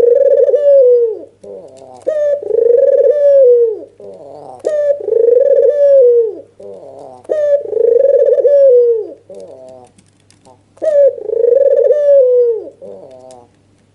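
White (albino-form) Barbary dove cooing loudly and repeatedly: five long rolling coos, each opening with a short note, coming every two to three seconds, the excited bow-coo that puter keepers call "ngangguk".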